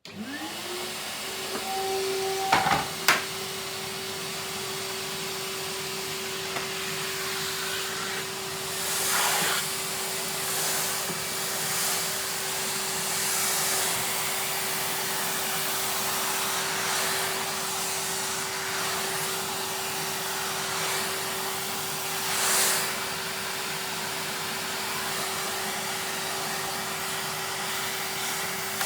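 Vacuum cleaner switched on, its motor rising to a steady whine over the rush of air, then running on steadily while vacuuming. A few sharp knocks come about two to three seconds in, and the airflow noise swells now and then.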